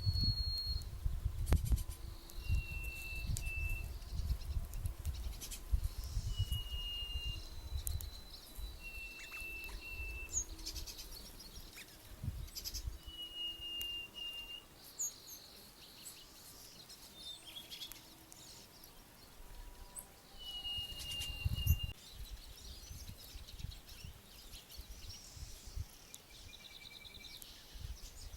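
A songbird gives short, even whistled notes every few seconds, some with a brief break in the middle. Wind rumbles on the microphone in gusts.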